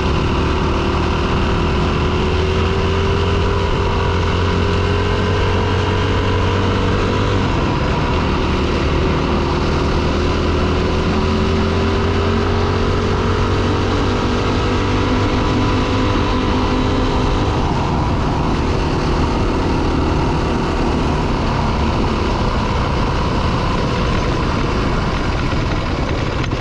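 Four-stroke dirt bike engine running under way. Its pitch climbs slowly and drops back twice, then holds lower, over a steady rushing noise.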